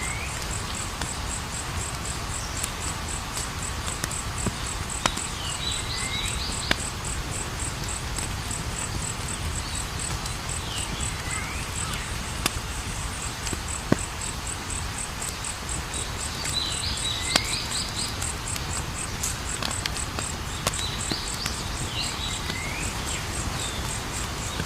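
Campfire burning with a low rumble and scattered crackles and pops. Crickets chirp in a steady pulsing trill, and a short chirping call comes back every few seconds.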